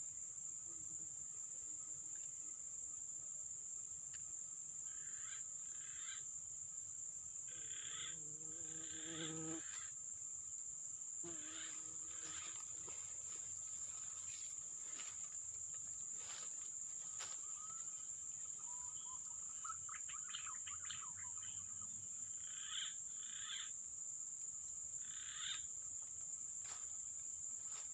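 A steady, high-pitched insect drone, typical of crickets, with short animal calls coming and going over it.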